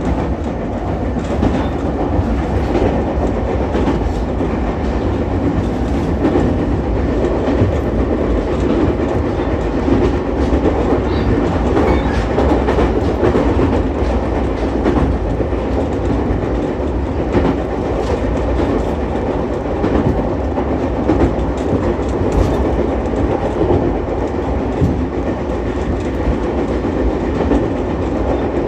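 Ichibata Electric Railway 7000-series electric railcar running at speed, heard from inside at the front: a steady rumble of wheels on rail with scattered clicks from rail joints.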